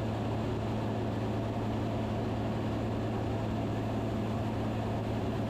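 Steady cockpit drone of a Van's RV-10 light aircraft's piston engine and propeller in flight, a constant low hum with a hiss above it.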